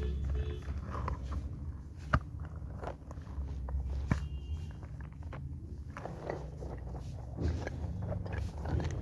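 Squishy foam toy being squeezed and handled close to the microphone: scattered soft crackles and rubbing, with two sharp knocks about two and four seconds in.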